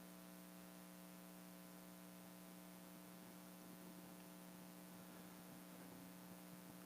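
Near silence: a steady electrical hum in the room or recording chain.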